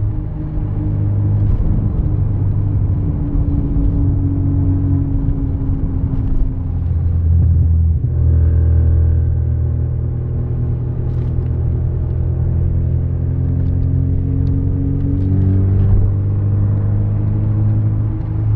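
Car engine heard from inside the cabin, pulling hard under acceleration, its note climbing steadily. The revs drop about seven or eight seconds in at a gear change, then climb again.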